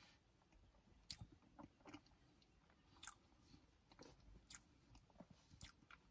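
Faint closed-mouth chewing of a soft pastry: scattered soft mouth clicks and smacks over near silence.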